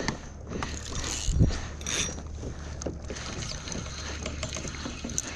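Irregular mechanical clicks and rattles from a kayak's fishing gear, over water sloshing against the plastic hull, with one louder knock about a second and a half in.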